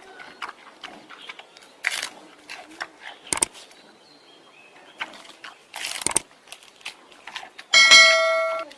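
Animal sounds: scattered short chirps and clicks, then a loud, steady-pitched call lasting under a second near the end.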